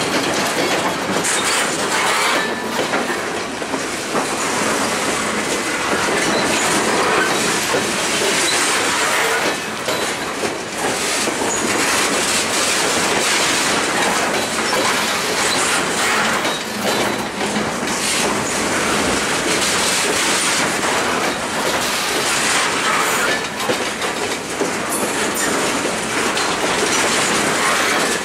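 Freight train of loaded flatcars rolling steadily past close by: the continuous clatter of steel wheels over the rail joints, with rail noise that holds steady throughout.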